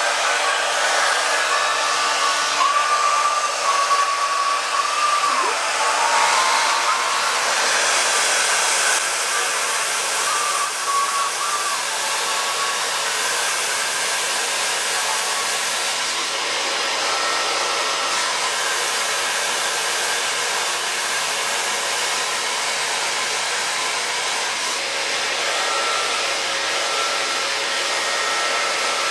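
Hair dryers running together, a rotating hot-air brush dryer and a hand-held dryer, giving a steady blowing hiss with a faint motor whine that wavers in pitch during the first few seconds.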